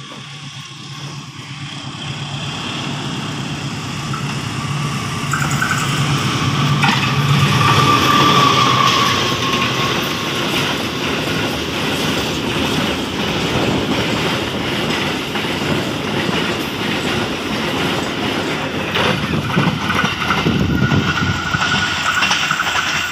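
Diesel-electric CC 206 locomotive approaching and passing, its engine growing louder over the first eight seconds or so, followed by a string of empty flat freight wagons rolling by with wheel clatter on the rails. A thin high steady tone sounds over parts of the pass.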